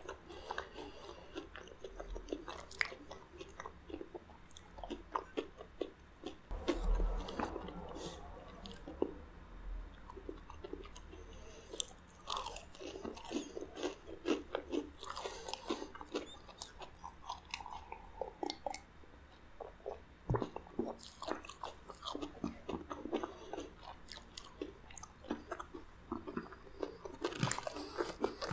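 Chewing and crunching of crispy crumb-coated fried food: a steady run of crisp crunches, with louder bite clusters several times.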